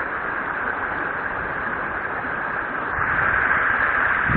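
Steady rush of river water flowing over a weir, a continuous noise that grows a little louder and fuller about three seconds in.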